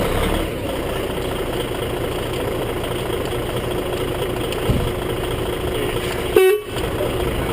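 Truck engine running steadily with a held tone over its rumble, and a short loud blast about six seconds in.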